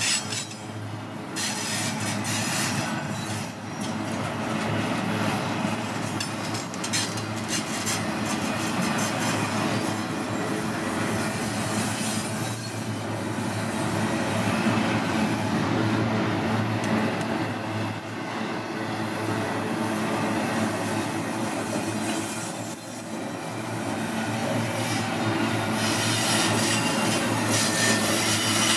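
Double-stack intermodal container freight train running past close by: a steady noise of steel wheels on the rails and clattering cars, with thin high wheel squeals, one clearer near the end.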